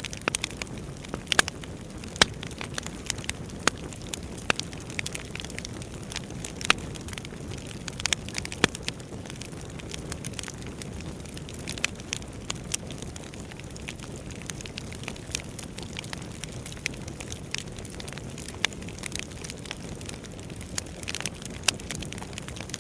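Wood fire crackling, with frequent irregular sharp pops over a steady low rumble of burning logs.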